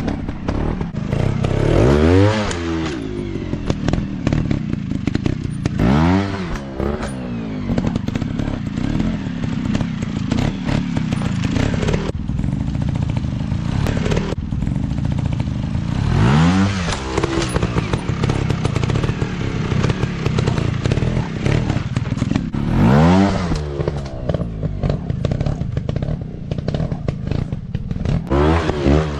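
Dirt bike engines running, revved hard in short bursts that rise sharply in pitch and drop back, four times, between stretches of steady lower running.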